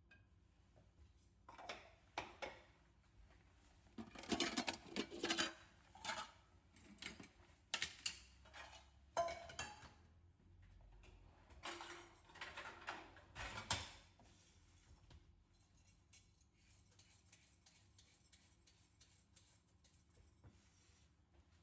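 Kitchen food-prep sounds: irregular knocks, clinks and scraping strokes of utensils and dishes, with a run of faint quick ticks near the end.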